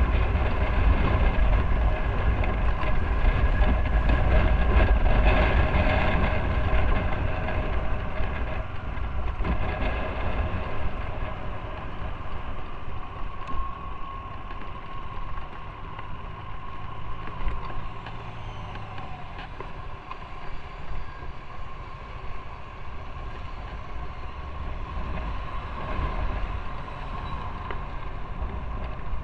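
Motorcycle engine running under way with wind rush on the microphone, louder over the first several seconds and then easing off as the bike slows or rolls off the throttle.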